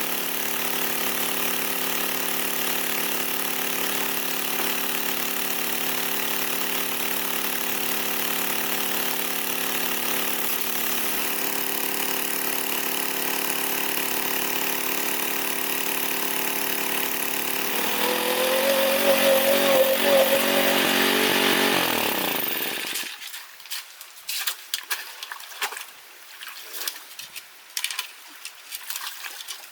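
A small engine runs steadily, revs up higher about two-thirds of the way in, then winds down and cuts out. After it stops, irregular water splashes and drips follow.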